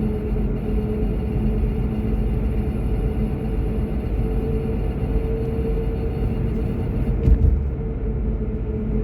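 Car driving, heard from inside the cabin: a steady low rumble of road and engine noise with a constant hum. There is a brief thump about seven seconds in, like a bump in the road.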